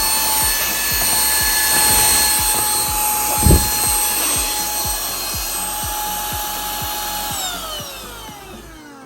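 Shinex Pro cordless vacuum cleaner running on its high setting with a steady whine and suction rush. About seven seconds in it is switched off, and the whine falls in pitch and fades as the motor spins down.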